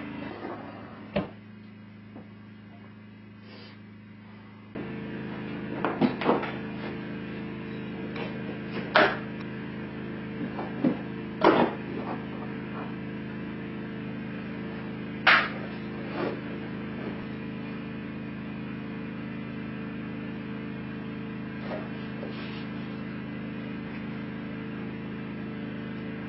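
Scattered sharp knocks and clanks, about four louder ones among lighter ticks, from sheet-metal chimney parts being handled and fitted. A steady mechanical hum runs underneath and gets louder about five seconds in.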